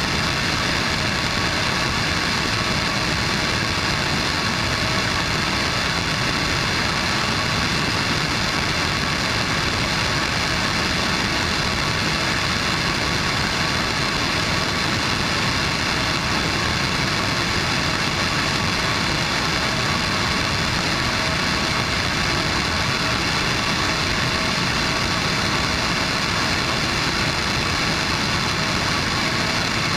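Blue Origin BE-4 liquefied-natural-gas, oxygen-rich staged-combustion rocket engine firing on a test, a steady unbroken roar of noise with a few faint steady tones in it.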